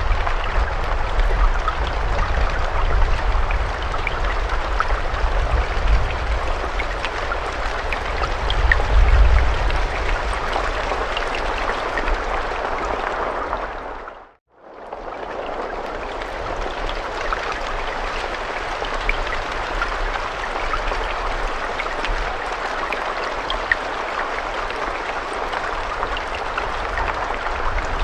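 Steady rainfall with scattered individual drops ticking, over a low rumble in the first half. About halfway through, the rain fades out to silence and then fades back in.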